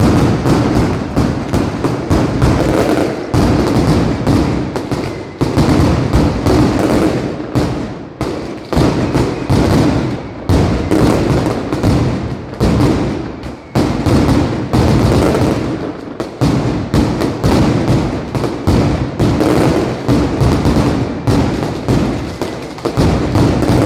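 Mascletà fireworks: a dense, rapid barrage of loud firecracker bangs in quick succession, with a few brief lulls.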